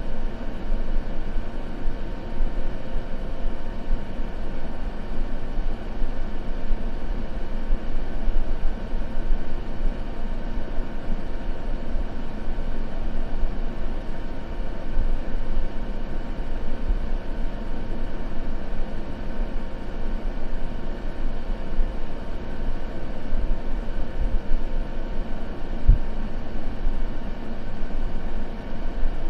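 Continuous white-noise ambience: a steady, even rushing noise weighted toward the low end, with one brief low thump near the end.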